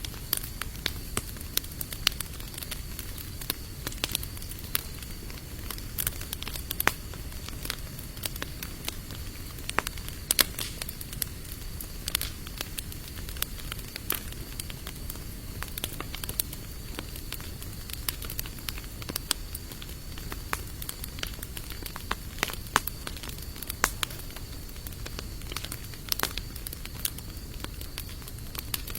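Wood fire of sawtooth oak and mixed hardwood logs crackling, with frequent irregular sharp pops, over a faint steady high-pitched whine.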